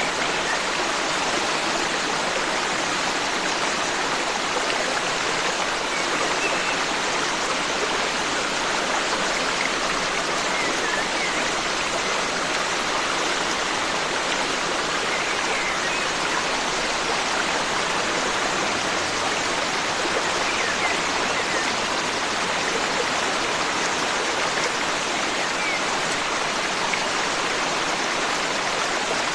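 Forest stream water rushing and splashing steadily over rocks, with a few faint, short bird chirps scattered through it.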